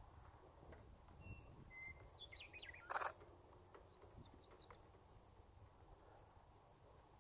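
Faint chirps of small birds, short and high, over a low outdoor rumble, with one sharp click about three seconds in, typical of a phone camera's shutter.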